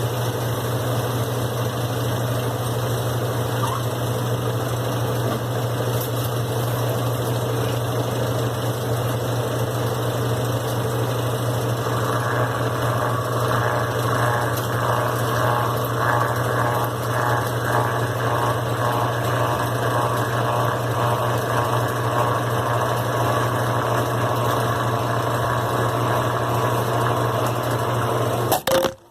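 Brastemp BWQ 24 washing machine running with a steady motor hum; from about twelve seconds in, a rhythmic swish joins it at about two beats a second and fades out, and the running cuts off suddenly near the end.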